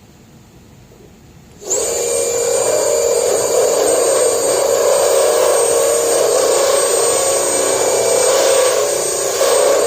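Die grinder with a porting burr spinning up about two seconds in and running steadily with a high whine, cutting rust out of a steel car hood.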